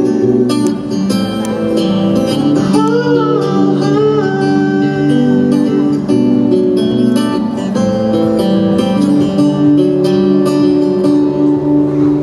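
Instrumental break in a live pop ballad: acoustic guitar playing over held chords, with no lead vocal.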